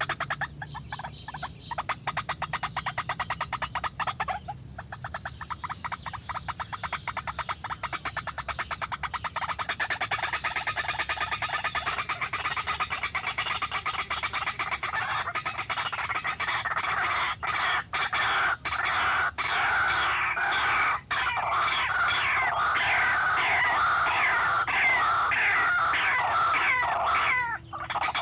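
White-breasted waterhen (ruak-ruak) calling: a continuous run of rapid, repeated croaking notes. It grows fuller and louder after about ten seconds, with a few brief breaks near the end.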